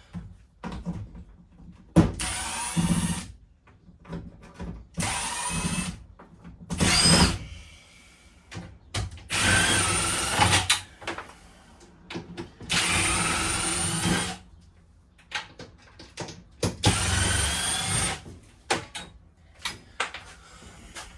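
Power drill backing out screws in short runs of one to two seconds, about six times, its motor whine rising and falling with the trigger, with clicks and knocks in between.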